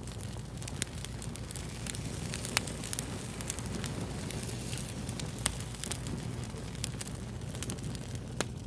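Fire crackling: irregular sharp pops and snaps over a steady low rushing noise.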